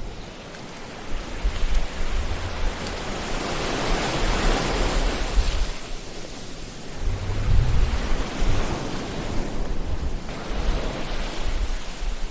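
Ocean surf: waves breaking and washing in as a continuous hiss with a low rumble, swelling around four seconds in and again near eight seconds.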